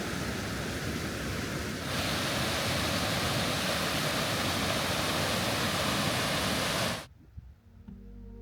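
Steady rushing noise that shifts slightly about two seconds in and cuts off abruptly about seven seconds in. Soft ambient music begins just before the end.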